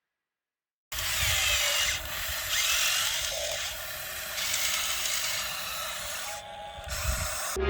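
The 1550 RC model excavator's small electric motors and gearboxes whirring as it works, starting suddenly about a second in and changing in pitch and loudness every second or so as different functions run.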